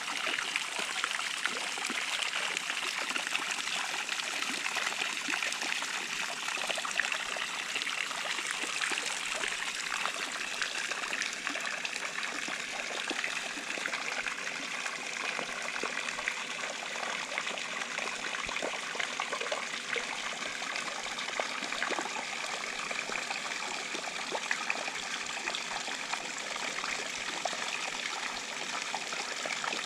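Intex 28089 waterfall running, a steady stream of water trickling and splashing down.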